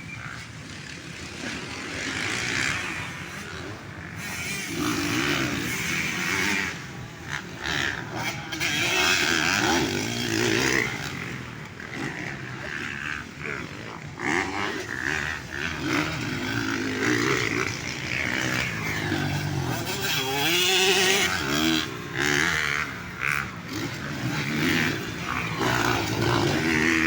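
Motocross dirt bike engines revving up and down over and over, their pitch rising and falling as the bikes work the track.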